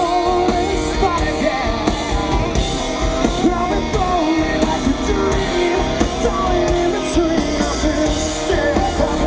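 Live rock band playing loudly, with a singer's voice over electric guitars and drums.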